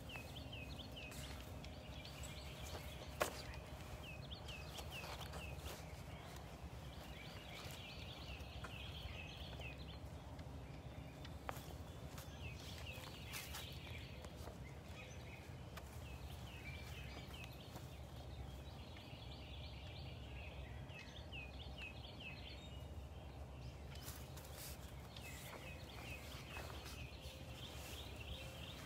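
A songbird singing phrases of quick repeated rising-and-falling notes every few seconds, over a steady low rumble. A sharp click about three seconds in is the loudest sound, with a fainter one near the middle.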